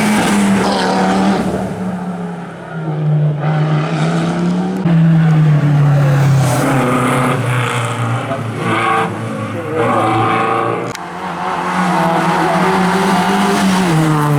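Historic rally car engines revving hard and changing gear as the cars drive flat out through a rally stage, in several passes cut together, with abrupt changes about three and a half and eleven seconds in.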